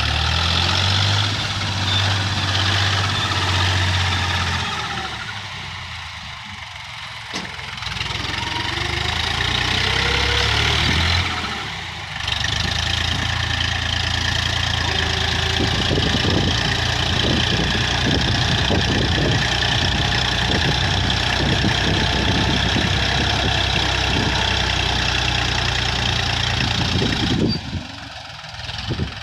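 Mahindra 275 DI tractor's diesel engine running steadily. Its note sags for several seconds, then picks up again and holds, with a rapid rattling clatter over the drone through the latter half.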